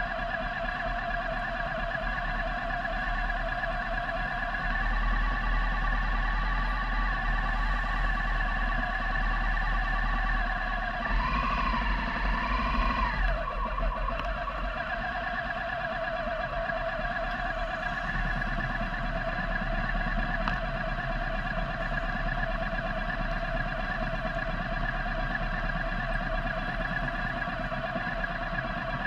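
Motorcycle engine running at a steady cruising speed, with low wind and road rumble. About eleven seconds in, the revs rise and fall briefly before settling back to the same steady note.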